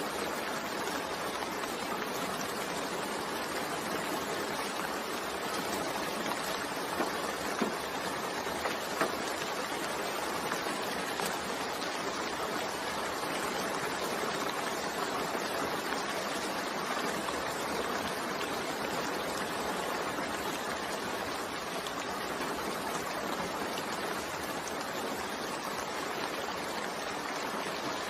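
Steady rain falling, an even hiss of water with a few louder single drops now and then.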